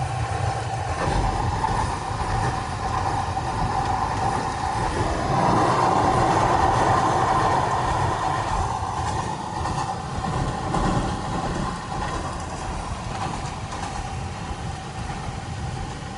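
A train running along its rails: a steady rumble with a constant hum, growing a little louder in the middle.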